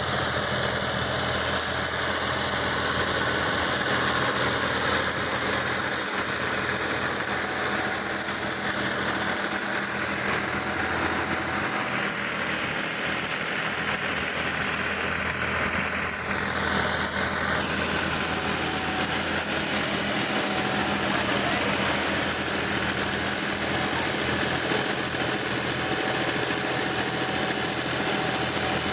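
Tractor engine running steadily at a constant speed, with no change in pitch.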